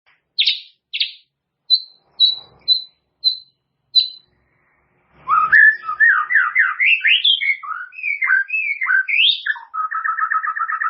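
White-rumped shama (murai batu) singing: about seven short, separate high whistled notes, then after a pause a fast run of varied sweeping whistles that breaks into a rapid, even trill near the end.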